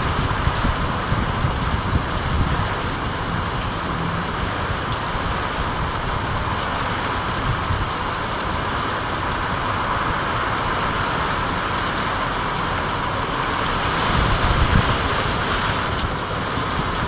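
Steady rain with a low rumble underneath that swells briefly about fourteen seconds in.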